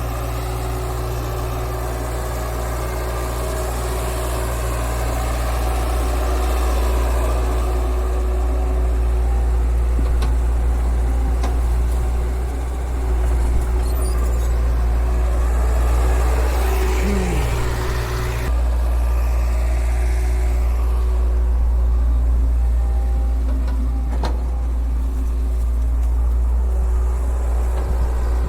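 Heavy diesel machinery engine running steadily with a deep low hum. About two thirds of the way through there is a short rising whine, and the sound then turns duller.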